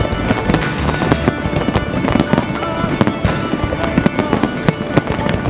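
Fireworks going off in quick succession, many sharp bangs and crackles a second, with music playing underneath.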